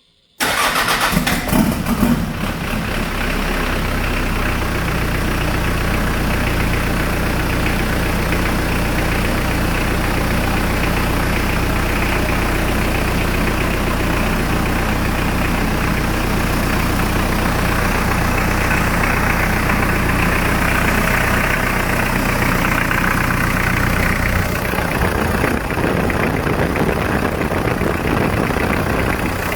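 Hyundai D4BH four-cylinder turbodiesel starting about half a second in, uneven for a second or two, then idling steadily.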